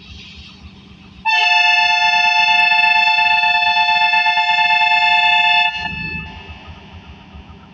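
Diesel locomotive air horn giving one long departure blast of about four seconds, a loud chord of two tones, starting about a second in and cutting off abruptly.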